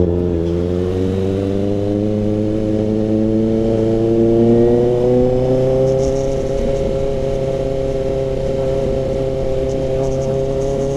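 Kawasaki ZX-6R's inline-four engine through an SC Project CRT exhaust, pulling under way. Its pitch drops sharply at the very start, then climbs slowly and smoothly as the bike gathers speed.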